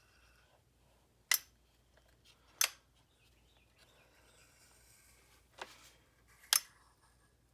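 Four sharp clicks at uneven gaps, the last one doubled, against a faint background.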